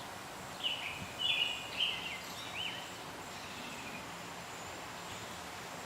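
A bird calling: a few short, high calls in the first half, then only faint steady outdoor background with a thin high-pitched hum.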